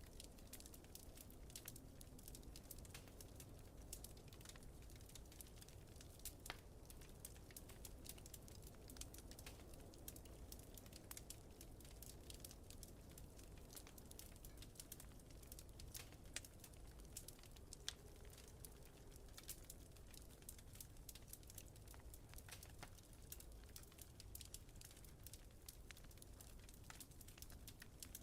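Faint wood fire crackling, with frequent irregular small pops and snaps over a steady low rumble.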